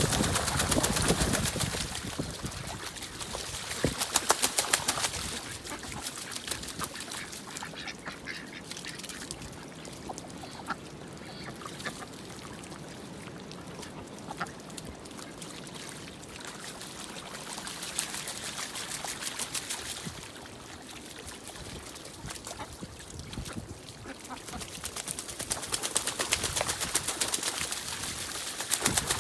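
Ducks quacking on a pond, in several loud bursts with quieter stretches between.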